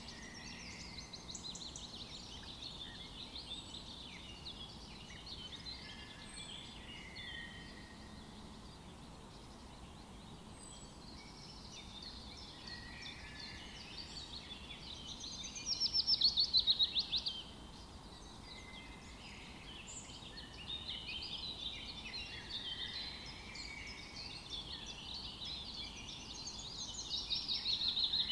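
Forest birds singing and calling, several voices overlapping over a low, steady background hiss. A fast, loud trill stands out about halfway through, and another builds near the end.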